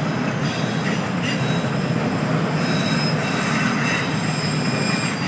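Freight train cars rolling past with a steady rumble and a high-pitched squeal from the wheels on the rails.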